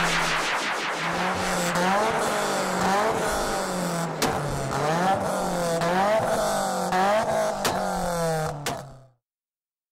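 Car engine revved again and again, its pitch climbing and dropping about once a second, with a couple of sharp cracks. The sound fades out about nine seconds in.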